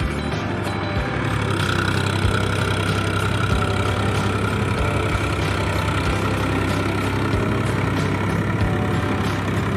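Powertrac tractor's diesel engine running steadily while it pulls a Shaktiman rotavator through heavy paddy mud in low gear, with a faint steady whine joining in about a second and a half in.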